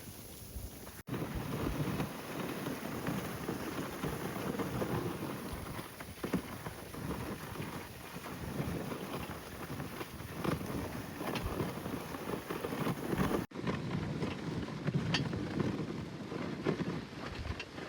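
Dog sled on the move: runners scraping and hissing over snow with the patter of the team running, under wind on the microphone. The sound breaks off abruptly twice, about a second in and again near the end.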